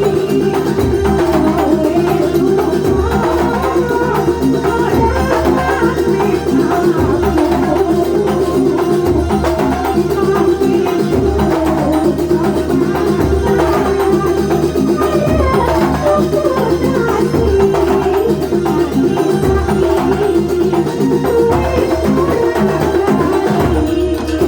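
Live Banyuwangi kuntulan music: drums beating steadily under a wavering melody line.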